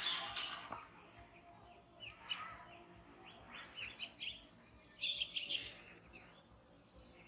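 Small birds chirping in a few quick clusters of short, high calls.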